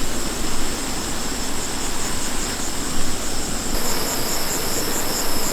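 Insects chirping in a high, evenly pulsing trill, which grows stronger after about three and a half seconds. Under it is a steady hiss, typical of chopped banana flower and onion frying in oil.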